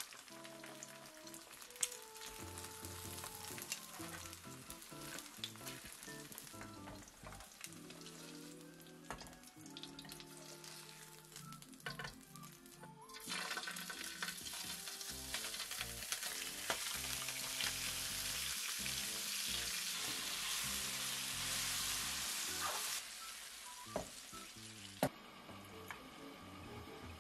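Hot oil sizzling in a frying pan as food fries: eggs first, then a longganisa sausage. The sizzle gets louder about halfway in and drops back a few seconds before the end, with soft background music throughout.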